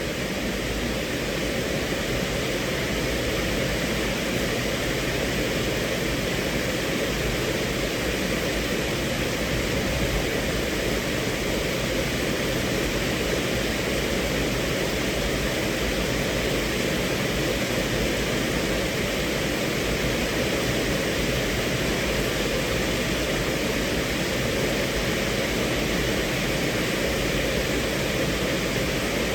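Steady rain falling on a car, heard from inside the cabin as an even, unbroken hiss.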